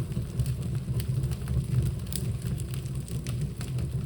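Fire burning vigorously in a home fireplace: a steady low rumble with scattered sharp crackles.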